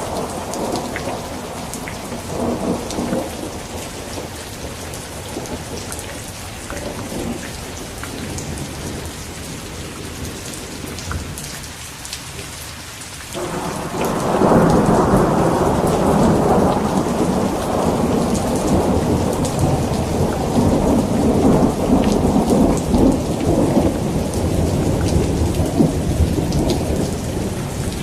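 Steady heavy rain with scattered drop ticks and rolling thunder. An earlier rumble fades away over the first dozen seconds, then a new, louder thunderclap breaks in suddenly about halfway through and rumbles on to the end.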